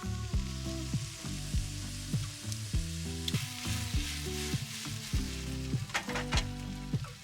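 Food sizzling in a frying pan, with a few sharp clicks of a utensil against the pan about six seconds in. Background music with clear changing notes plays over it.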